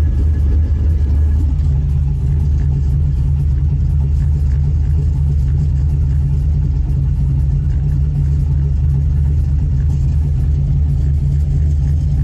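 LS V8 engine idling with the Holley EFI idle chop enabled. The ECU swings the ignition timing up and down around a 750 rpm target, so the idle speed wanders between roughly 700 and 820 rpm.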